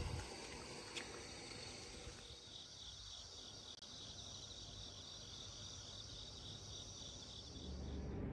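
Crickets chirping at night: a faint, steady high-pitched trill, with a fast, evenly pulsed chirp joining in about two seconds in.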